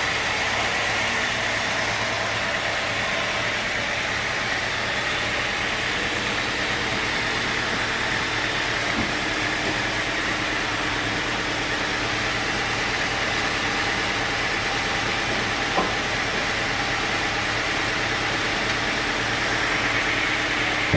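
Sawmill machinery running steadily: an engine drone under a high, even whine, with a single small click about three-quarters of the way through.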